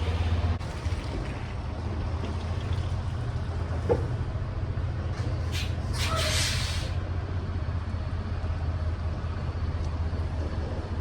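Semi truck's diesel engine running steadily at low revs. There is a sharp click about four seconds in and two short hisses about halfway through.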